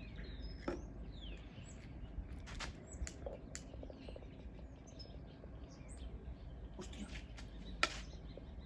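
Faint bird chirps over a low steady outdoor rumble, with a few scattered sharp clicks; the loudest click comes near the end.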